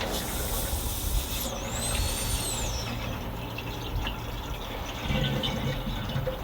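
Air hissing and whistling out of an opened bleed screw on a narrowboat engine's skin tank, a sign that the cooling tank is full of air and nearly empty of coolant. A high whistle rises and falls once, about a second and a half in, over a steady low hum.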